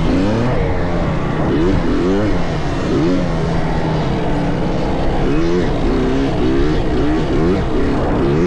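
Several dirt bike engines on a motocross track revving up and down, their pitch rising through each gear and dropping at the shifts, overlapping one another.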